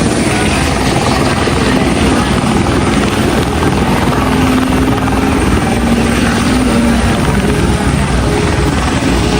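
Helicopter running close by, a loud, steady rotor and engine noise that starts abruptly at a cut.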